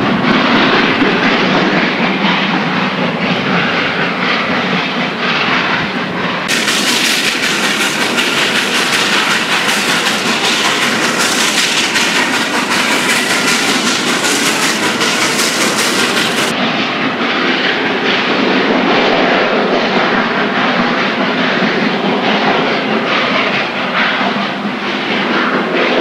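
Steam train on the move: steady noisy running of the locomotive and cars on the rails, with faint clicks. From about a third of the way in until just past the middle the sound turns brighter and fuller, as heard from the roof of a moving car.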